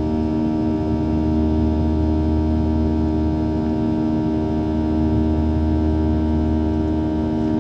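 Cabin noise inside a Boeing 737 with its CFM56 turbofan engines running: a steady low drone carrying several held tones, with no change in pitch or loudness.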